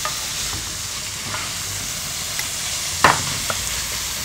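Minced pork and prawns sizzling in oil in a nonstick frying pan while a slotted spatula stirs them, with a sharp clack of the spatula against the pan about three seconds in.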